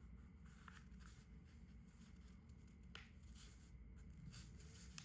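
Near silence with a few faint rustles and soft clicks of a sheet of A4 paper being folded and creased, the clearest about three seconds in.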